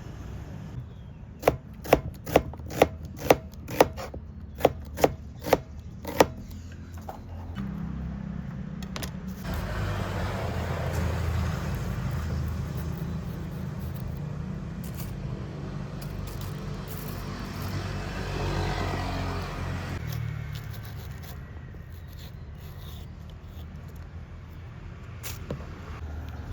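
A knife chopping on a wooden cutting board: about ten sharp strokes, roughly two a second, stopping about six seconds in. Later a steady rushing noise rises and runs for about ten seconds, over a constant low hum.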